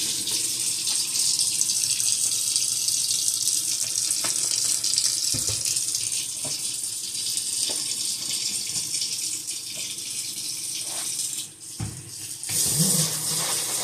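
Kitchen sink faucet running steadily into the sink, with a few light knocks of items being handled. The flow drops away briefly near the end, then runs again.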